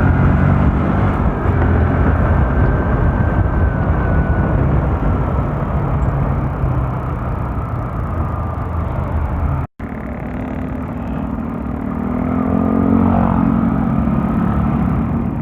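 Motorcycle on the move: steady wind rush with the running note of a Bajaj Rouser NS160's single-cylinder engine underneath. The sound cuts out completely for an instant about ten seconds in.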